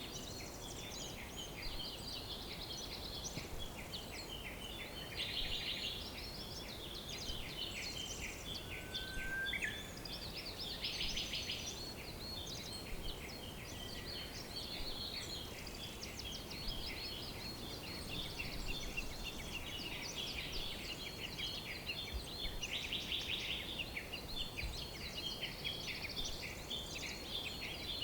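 Many songbirds chirping and trilling over one another in a dense, continuous chorus, over a faint steady hiss. A short, lower rising whistle comes about nine seconds in.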